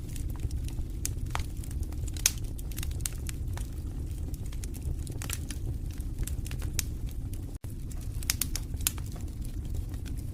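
Wood fire burning in a fireplace: a steady low rumble of the flames with irregular crackles and sharp pops, the loudest about two seconds in.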